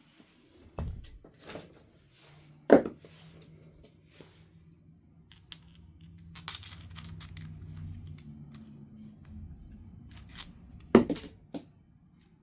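Flintknapping on a Knife River Flint biface: a series of sharp strikes and glassy, coin-like clinks of flint, the loudest a bit under three seconds in, with a quick cluster of clicks midway and more near the end.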